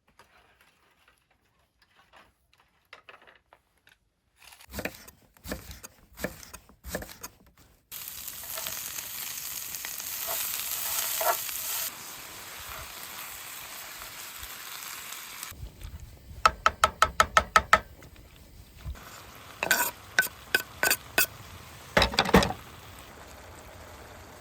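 Food sizzling in a hot frying pan. The sizzle starts suddenly about a third of the way in, is loudest at first, then settles to a steady hiss. Utensils clatter against the pan with knocks and a quick run of sharp clicks.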